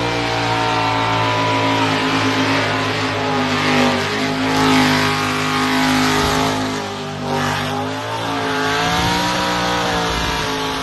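Burnout car's engine held at high revs, its pitch wavering up and down as the throttle is worked, over the hiss of the rear tyres spinning on the pad.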